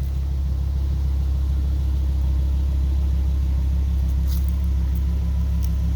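Audi R8's 5.2-litre V10 idling steadily, a low even hum.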